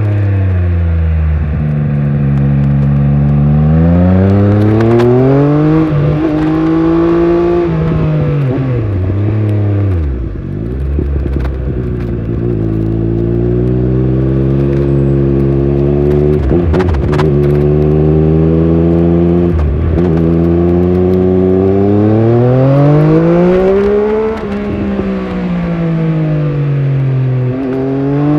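Triumph Speed Triple 1200 RS inline three-cylinder engine under riding load, its pitch climbing and falling as the bike accelerates, shifts and slows. It drops to a low pitch about ten seconds in, then pulls up steadily again, with a quick drop near the end. Wind noise rushes over the microphone.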